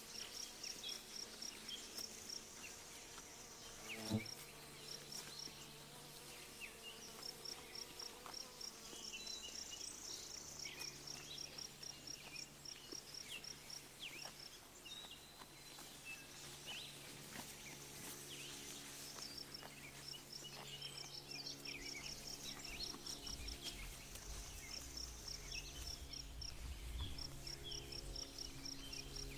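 Pasture ambience: repeated bouts of a rapid high ticking trill, a few seconds each, typical of an insect stridulating, with scattered short bird chirps. There is a single sharp knock about four seconds in, and a low steady drone in the second half.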